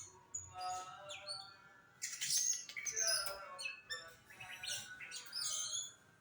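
Caged songbirds singing: a varied string of short chirps, whistles and quick sweeping notes in bursts, with brief pauses between phrases.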